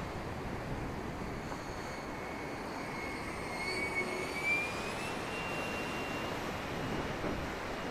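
90mm electric ducted fan of a radio-controlled Hawk model jet whining in flight, its pitch rising about four seconds in and then holding, over steady wind noise on the microphone.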